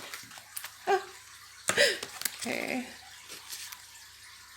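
Oracle cards being handled and drawn from the deck: a scattering of sharp card taps and flicks, with a brief murmur.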